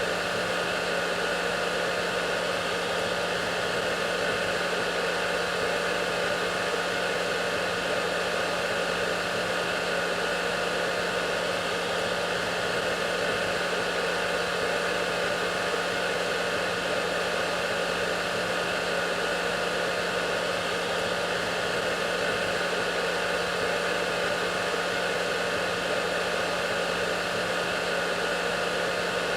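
Hair dryer running steadily: a constant rushing hiss of blown air with a motor hum underneath, no change in speed or level.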